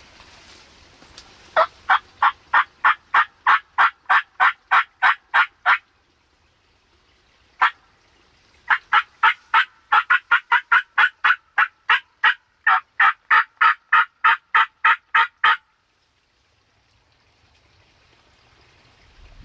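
Turkey yelps in long even runs of about four a second: one run of some fifteen notes, a lone note, then a longer run of about twenty-five notes.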